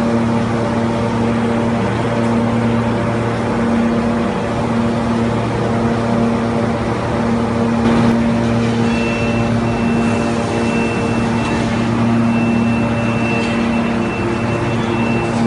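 Industrial machinery on an aluminium billet furnace and extrusion press line, running with a steady hum made of several fixed tones. Around nine seconds in, a faint high, steady whistle starts, comes and goes.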